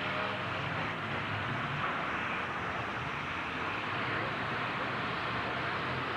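Demolition-derby truck engines running, heard as a steady wash of noise with a faint engine hum fading out in the first second.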